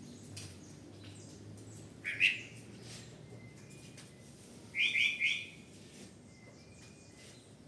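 A bird chirping: one sharp chirp about two seconds in, then three quick chirps in a row about five seconds in, with faint short whistled notes between.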